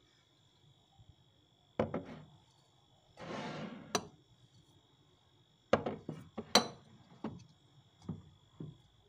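Household containers being handled and set down on pantry shelves: a series of knocks and clinks, with a short scraping or rustling sound a few seconds in.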